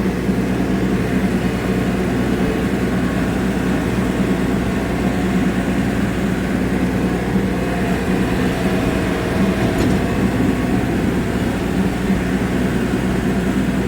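LS diesel tractor engine running steadily under load, driving a rotary cutter (brush hog) while mowing: a constant loud drone with a low hum.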